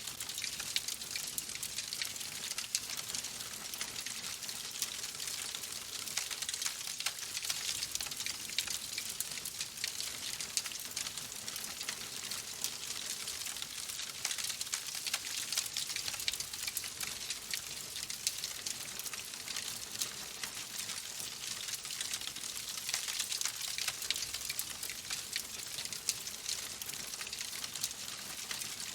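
Wood fire crackling in a fireplace: a steady hiss dotted with many small, quick pops and snaps.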